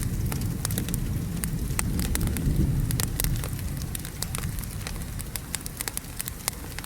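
Wood fire crackling with frequent sharp pops, over a steady hiss of rain. A low rumble of thunder is strongest in the first half and eases off later.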